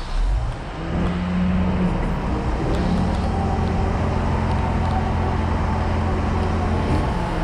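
Large diesel truck engine running steadily, its hum stepping up slightly in pitch about three seconds in, over road noise.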